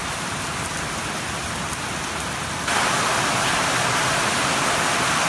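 Heavy rain falling, a steady hiss that becomes abruptly louder and brighter a little over halfway through.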